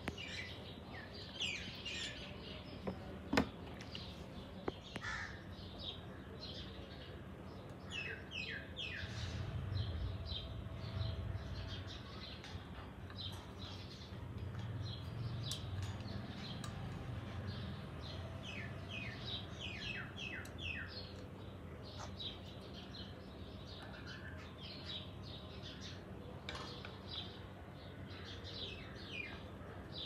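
Bird chirping in quick runs of short falling notes, with a sharp click about three seconds in.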